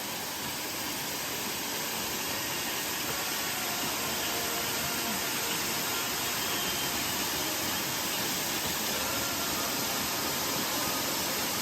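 Waterfall's rushing water: a steady, even hiss that does not change.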